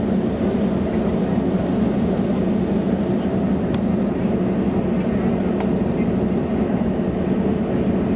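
Steady low hum inside the cabin of an Airbus A320neo on the ground before takeoff.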